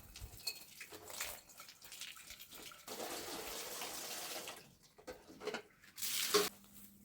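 Water running, as from a tap, for about a second and a half, among scattered small clatters, then a louder short rush of noise near the end.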